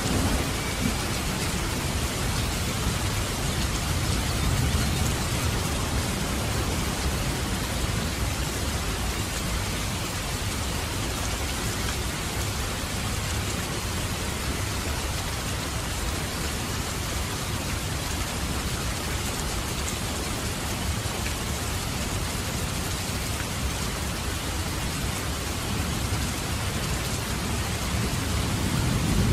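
Steady rain falling and dripping from a roof edge. A low rumble of thunder swells a few seconds in and again near the end.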